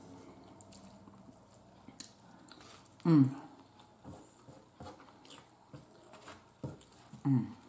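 Close-miked eating sounds of someone chewing pork steak: soft chews and small mouth clicks, with two short voiced murmurs, one about three seconds in and one near the end.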